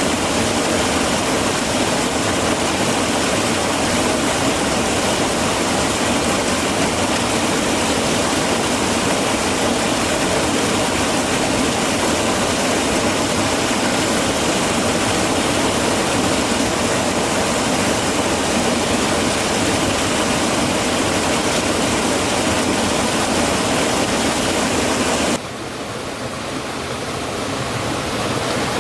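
Rushing stream water, a loud, steady rush. About 25 seconds in it suddenly drops quieter, then slowly builds again.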